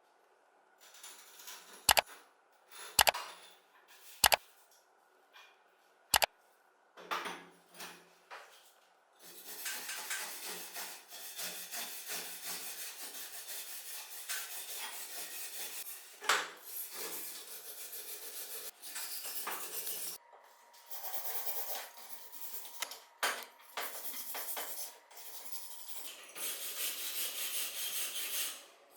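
Hands working on a rusty metal table lamp. There are a few sharp metal clicks and knocks in the first six seconds, then long stretches of scraping and rubbing with short pauses.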